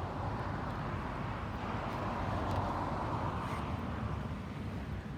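Aircraft engine noise, a broad rushing sound over a low rumble that swells to a peak about halfway through and then eases off.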